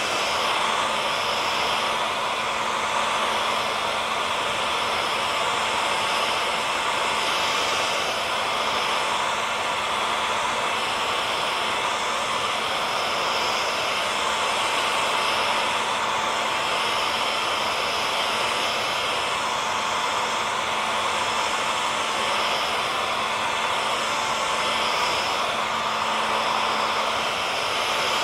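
Hair dryer running steadily: an even blowing rush with a constant motor whine held on a few steady pitches.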